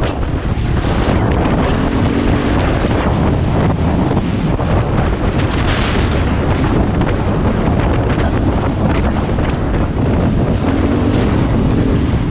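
Heavy wind rushing over the microphone while riding, with the KTM 500 EXC's single-cylinder four-stroke engine running underneath.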